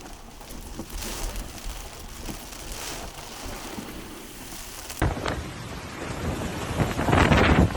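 Hurricane rain and gusting wind. About five seconds in it cuts to a louder stretch where gusts buffet the microphone, the strongest near the end.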